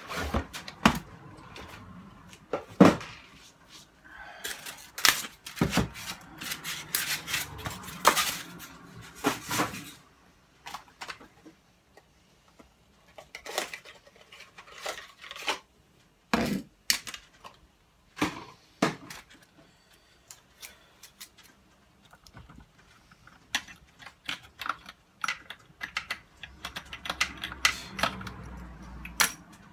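Handling noise while unpacking a boxed radio and its accessories: irregular clicks and knocks of hard plastic items being picked up and set down, with denser rustling between about five and ten seconds in.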